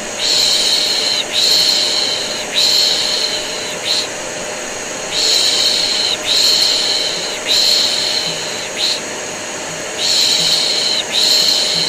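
Rhythmic baby-soothing shushing, a drawn-out 'shhh' repeated about once a second with a couple of short pauses, over the steady hiss and hum of a vacuum cleaner. This is white noise used to calm a colicky baby to sleep.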